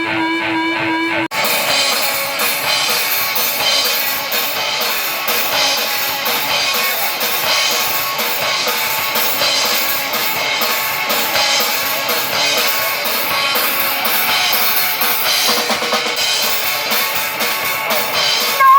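A live rock band playing loud and fast, with a drum kit of bass drum, snare and cymbals driving over the band. A short steady guitar passage cuts off abruptly about a second in as the full band comes in.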